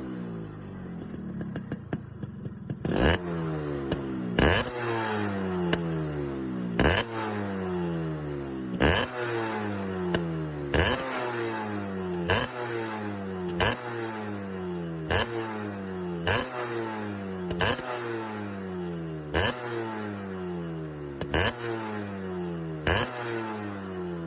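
Motorcycle engine with a tuned aftermarket exhaust, revved in about a dozen sharp throttle blips. The revs snap up and fall back toward idle every one and a half to two seconds, starting a few seconds in.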